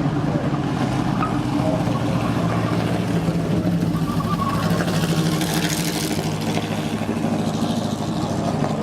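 Car engine running steadily at an even speed, with a short burst of hiss about five seconds in.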